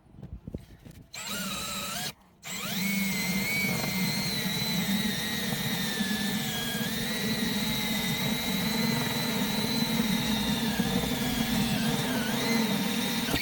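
Power drill boring a 3/4-inch Forstner bit through the minivan's roof to make a hole for the solar panel wires. The motor starts about a second in, stops briefly, then runs steadily to the end with a whine whose pitch wavers and dips now and then.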